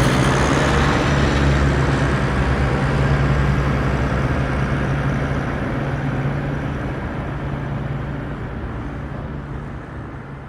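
Off-road vehicle engine running steadily under a broad rumble of vehicle noise. It fades out gradually near the end.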